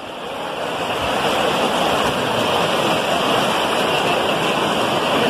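Steady rush of fast-flowing floodwater, fading up over the first second or so and then holding even.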